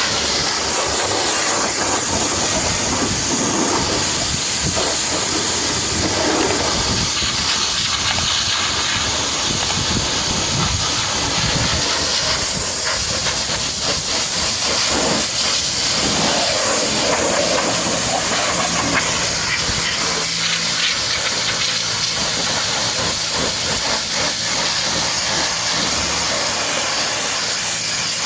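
High-pressure washer jet spraying water on a truck, a steady hiss that changes a little in tone as the spray moves.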